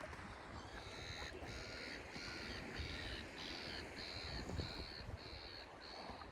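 A bird calling over and over, about ten evenly spaced calls at roughly two a second, over a low rumble of wind.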